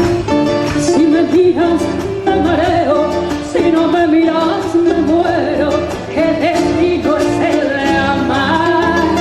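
Argentine folk song: a voice singing a wavering melody over plucked guitar accompaniment.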